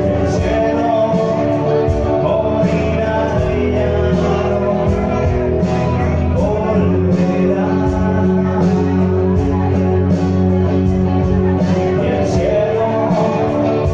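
Live rock band playing, with guitars, drums and a singing voice.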